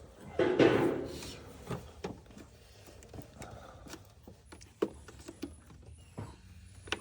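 Scattered light clicks and knocks of a hand tool and plastic connectors being worked loose on an engine's intake, with a louder rustling rush about half a second in.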